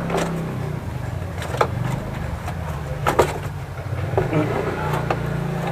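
Cardboard box being opened by hand: sharp scrapes, rips and knocks of packing tape and cardboard, the loudest about three seconds in, over a steady low engine-like hum.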